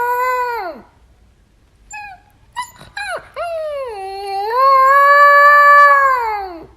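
A dog howling back as it is scolded. One long wail tails off under a second in, a few short yips follow, then a second long wail dips, rises, holds and drops away near the end.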